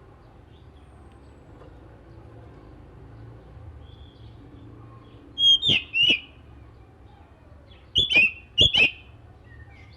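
Oriental magpie-robin (kacer) giving loud, sharp, short call notes in quick clusters, one about halfway through and another a couple of seconds later, after a few quiet seconds with only a faint low hum.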